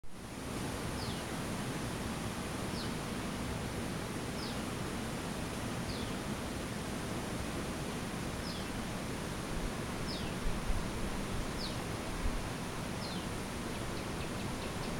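A bird repeating a short, high note that falls in pitch, about once every second and a half, over a steady outdoor hiss. A few low bumps come about ten to twelve seconds in.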